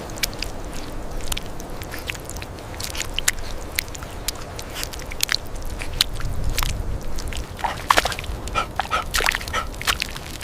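Puppies making short high squeaks and whimpers, several in a row in the last couple of seconds, among scattered small clicks and a low rumble.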